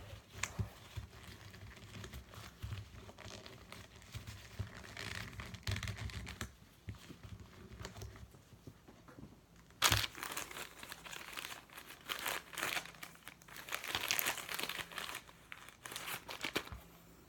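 Tissue paper crinkling and rubbing as it wipes excess gummy lube and dirt out of a speedcube, with scattered light clicks. A sharper, louder rustle comes about ten seconds in.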